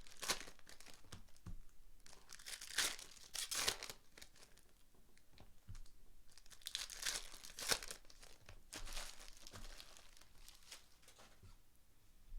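Foil trading-card pack wrappers being torn open and crinkled, in several short bursts.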